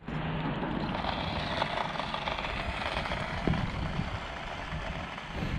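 A car engine running nearby over steady outdoor noise, with a small knock about three and a half seconds in.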